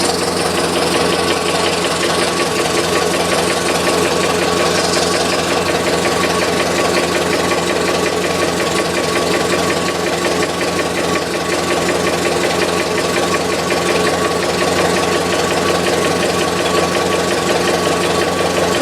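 1919 Ford Model T's four-cylinder side-valve engine running steadily at idle, with a fast, even ticking knock that the owner takes for an engine knock less than 1,000 miles after a rebuild.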